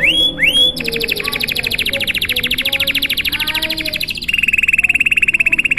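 Domestic canary singing a long song: a few rising notes, then a long, fast trill that drops to a lower-pitched trill about four seconds in.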